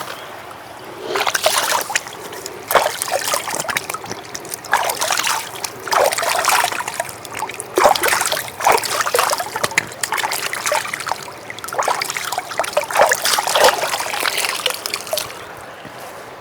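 Water splashing and trickling in uneven bursts, starting about a second in and dying away near the end.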